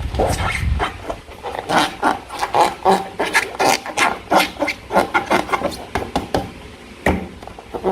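Slime being squished and worked by hand: an irregular run of wet squelches and small popping clicks, several a second.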